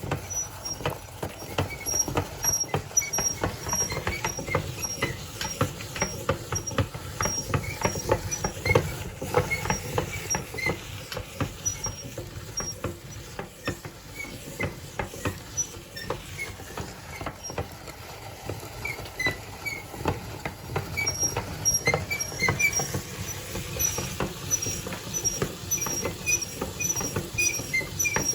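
Meat grinder crunching coloured chocolate candies: a dense, irregular run of cracks and clicks as the candy shells break, with short high chirps mixed in.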